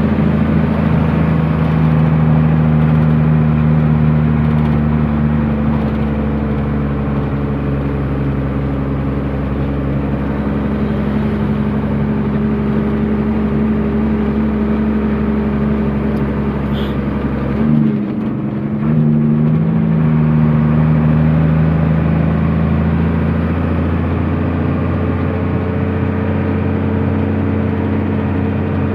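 A truck's diesel engine running steadily under way, heard from the cab. Just past halfway the engine note briefly drops away, then comes back at a slightly different pitch.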